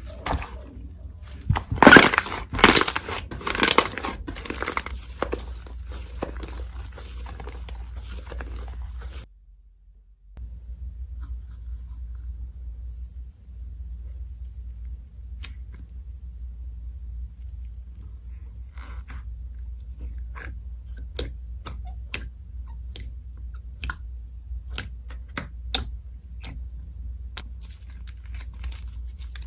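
Slime being squeezed and stretched by hand, giving dense crackling pops and clicks that are loudest in the first few seconds. After a brief break about nine seconds in, the slime is worked more gently, with scattered soft clicks.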